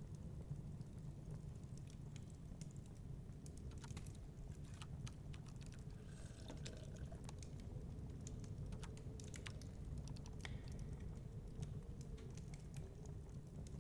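Wood fire crackling, with scattered irregular pops and snaps over a steady low rumble.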